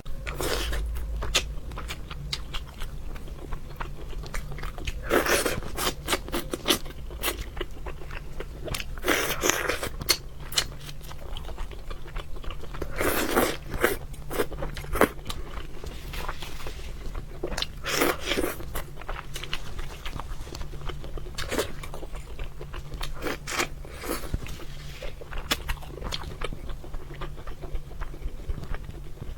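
Close-miked eating of fish: irregular crunching bites and chewing, with louder crunches every few seconds, over a steady low hum.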